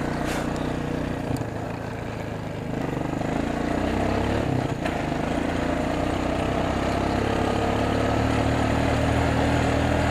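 Four-wheeler (ATV) engine running as it rides along a trail, easing off briefly a couple of seconds in, then pulling again with its pitch slowly climbing. A few light knocks stand out over the engine.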